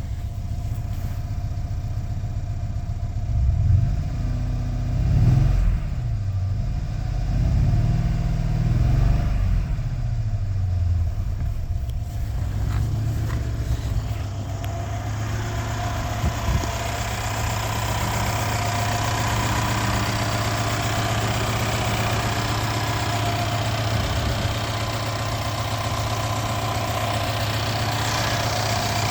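2014 Mercedes-Benz E550's twin-turbo V8 idling, revved up and back down a few times in the first ten seconds or so, then settling to a steady idle.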